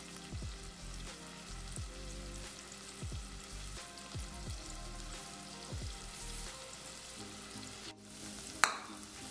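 Grated onion and crushed garlic frying in butter in a saucepan, a steady soft sizzle, with background music under it. Near the end a wooden spoon knocks once, sharply, against the pan.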